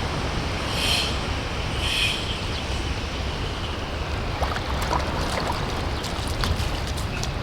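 Steady rush of ocean surf with wind rumbling on the microphone. A short high call repeats about once a second in the first two seconds, and a scatter of small sharp clicks comes in from about halfway through.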